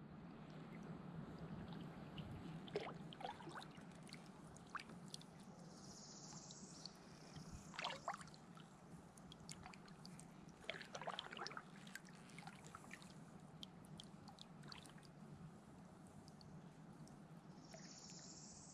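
Faint kayak paddling: water trickling and dripping off the paddle, with soft splashes of the blade a few times.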